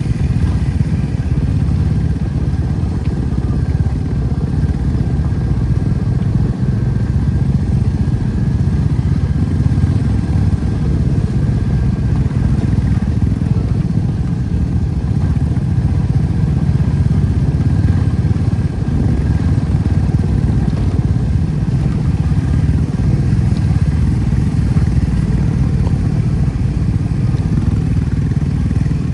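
Motorcycle running steadily at riding speed: a continuous low rumble of engine and wind noise.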